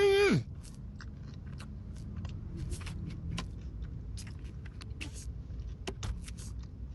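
Close-up eating of a McDonald's pie with a crunchy crust: a short vocal sound at the start, then scattered small crunches and mouth clicks of chewing over a low steady hum.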